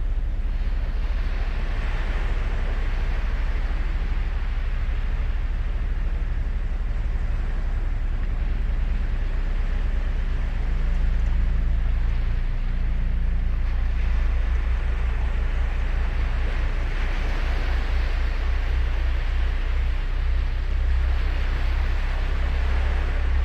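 Ocean surf breaking and washing on a sandy beach, the hiss of the wash swelling and fading several times. A steady low rumble of wind on the microphone runs underneath.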